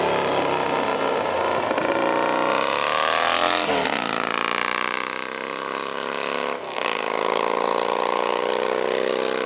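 1950 Vincent Black Lightning's 998 cc V-twin engine accelerating hard, its pitch climbing then dropping sharply with upshifts about four seconds in and again near seven seconds, before pulling up again.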